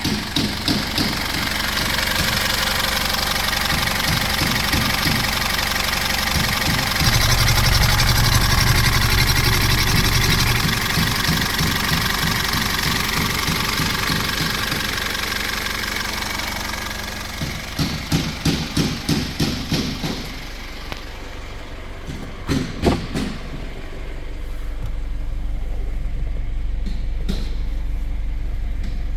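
A 2014 Foton Tunland's 2.8-litre four-cylinder turbo-diesel engine catching and running, revved up around 7 seconds in, then settling to idle. Near 18 seconds there is a rhythmic chugging, after which the engine sound drops away. A couple of knocks follow, and a low steady hum sets in from about 24 seconds.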